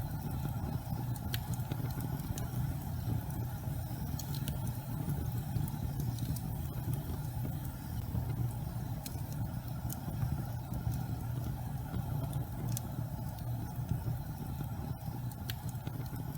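Gas fireplace flames burning with a steady low rumble, with scattered faint crackles.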